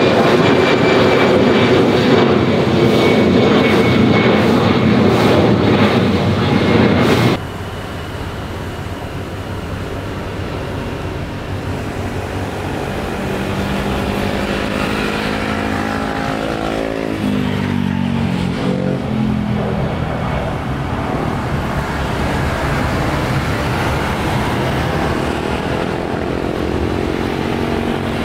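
Jet airliner engines running loud with a high whine, cut off abruptly about seven seconds in. Quieter engine noise follows, with tones that fall in pitch around the middle as an aircraft passes.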